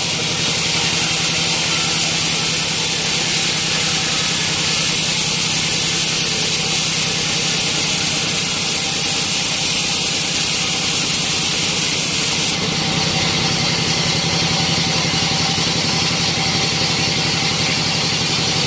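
Sawmill machinery running steadily: an engine drone with a loud, high hiss over it that changes slightly about twelve seconds in.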